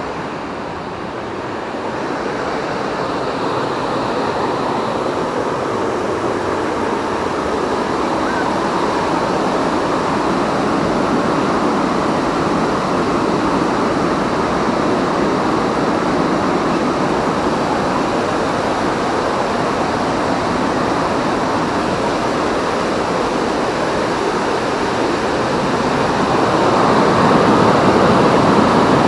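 Rushing water of the Amblève river, a steady roar that grows gradually louder, with a further rise near the end.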